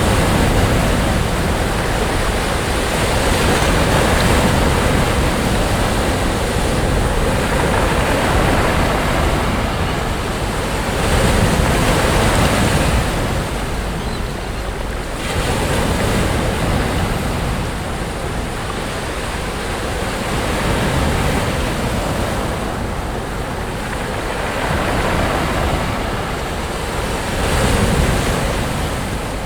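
Sea waves breaking on a beach: a continuous wash of surf that swells roughly every four seconds, with a steady low rumble of wind on the microphone underneath.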